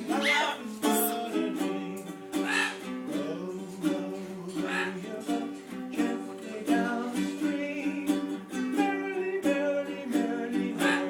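Acoustic guitar playing, with a parrot singing along in short rising calls several times over the music.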